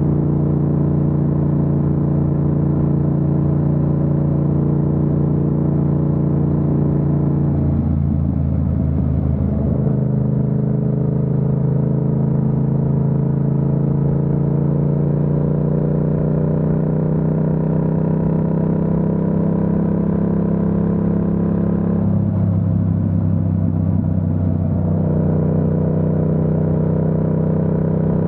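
Yamaha MT-07's parallel-twin engine running under way, heard from the rider's seat. Its pitch breaks and drops to a new, steady note about eight seconds in, climbs slowly for the next dozen seconds, then changes again over about three seconds near the end, as with gear changes and throttle changes.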